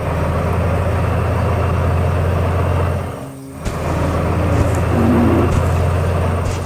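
A vehicle engine running with a steady low drone, dipping briefly a little past halfway and then picking up again.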